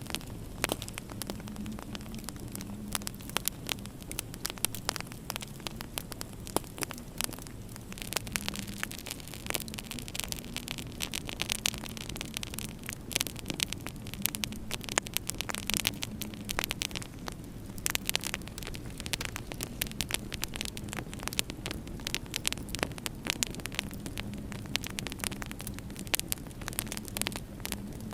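Wood fire crackling in a fireplace, with frequent sharp pops, over a steady low hum.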